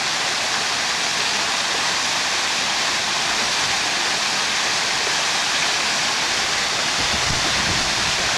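Water pouring from a backyard pool's rock waterfalls into the pool, making a steady hissing splash. It comes from a 'rain' fall, whose water breaks up and hits the surface like rain, running alongside a smoother 'sheet' fall.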